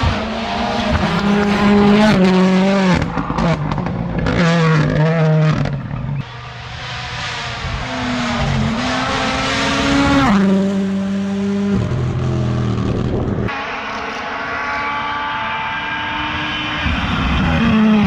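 Rally1 cars' turbocharged four-cylinder engines at full throttle in several separate passes. Each engine revs up and drops in pitch with quick gear changes.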